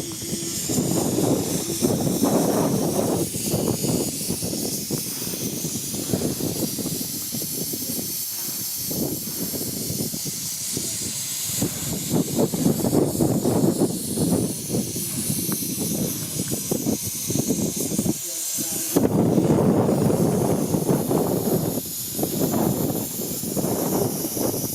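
Steam locomotive venting steam with a steady hiss. Wind is buffeting the microphone.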